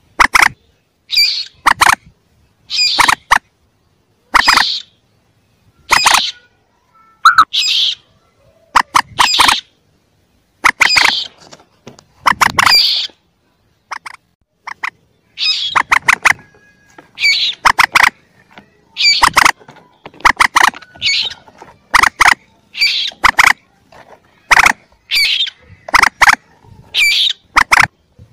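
Common moorhen calls from a chick-call lure recording: short, sharp, high calls, often in quick pairs or threes, repeated about once a second.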